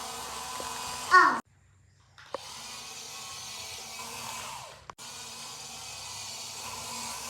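Small electric motor of a toy excavator whining steadily. About a second in there is a short, loud squeal, followed by a brief drop to near silence; the motor then carries on.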